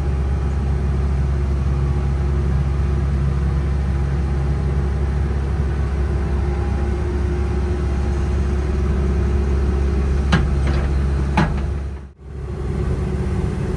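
Diesel engine of a Cat 312CL excavator running steadily at a low, even drone. Two sharp knocks come about ten and eleven seconds in, and the sound cuts out briefly near the end.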